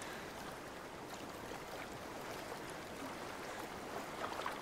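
Quiet, steady rush of flowing stream water.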